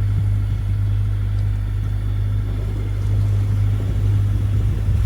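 Sailboat's inboard engine running steadily under way, a constant low hum.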